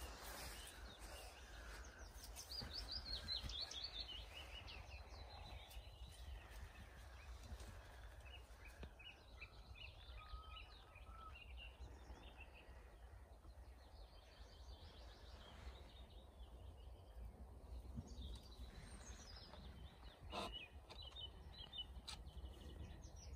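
Wild birds singing faintly in several separate bursts of quick, high chirping notes, over a faint low rumble.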